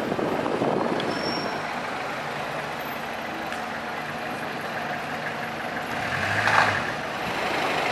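Street traffic with heavy vehicles running, and a short louder burst of noise about six and a half seconds in.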